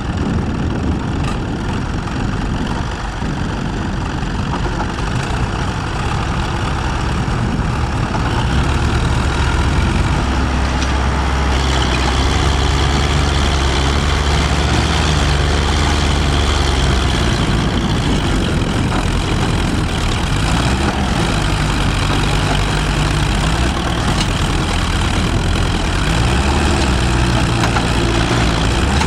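Tractor engine running, growing louder and deeper about a third of the way in, its pitch rising and falling a few times. A steady high whine sits above it for several seconds in the middle.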